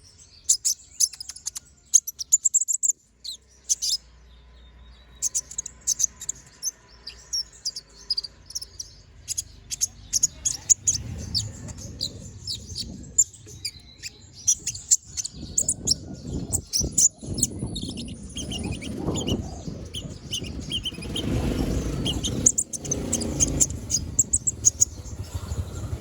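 Kolibri ninja (konin) sunbird singing a fast run of sharp, high chirps and twitters, with a short pause early on. A low rumbling noise builds up underneath through the second half, loudest a few seconds before the end.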